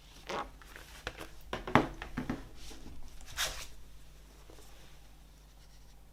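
Vinyl LP packaging being handled: a quick run of short scraping, sliding and rustling strokes, the sharpest about two seconds in, dying away after about four seconds.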